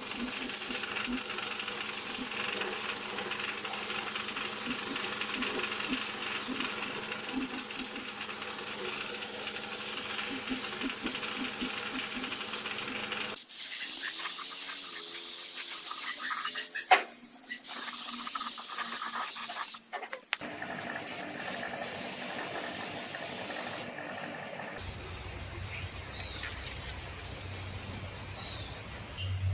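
A loud, steady hiss for about thirteen seconds, then, after sudden cuts, a run of quieter, changing sounds.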